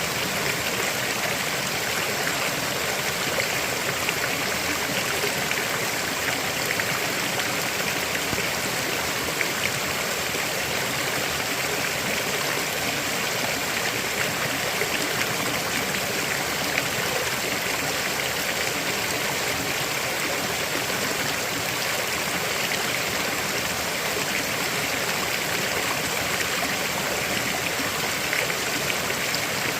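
River water flowing steadily over rocks, a continuous rushing with fine splashing and trickling.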